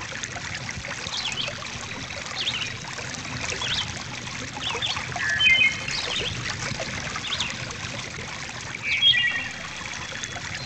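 A stream trickling steadily, with small birds chirping now and then, including short trills about halfway through and again near the end.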